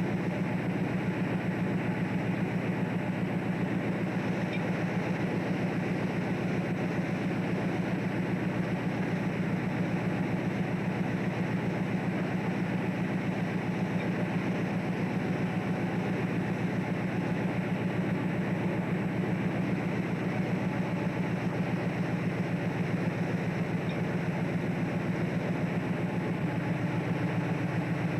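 A fishing boat's diesel engine running steadily, heard on board as a low, even drone that does not change.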